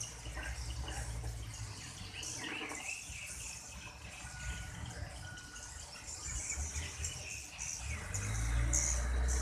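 Swiftlets chirping with repeated short high calls, over a low rumble that grows louder near the end.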